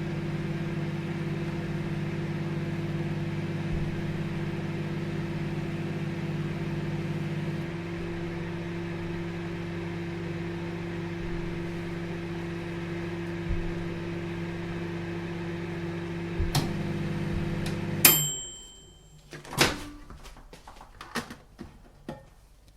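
Microwave oven running with a steady hum, which drops a little about eight seconds in. Near the end there is a click, then a sharp ringing ding as the cycle finishes and the hum stops, followed by scattered clicks and knocks.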